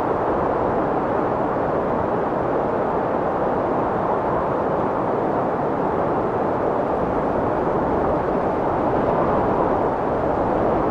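Strong wind blowing with a steady rushing noise, its level barely changing.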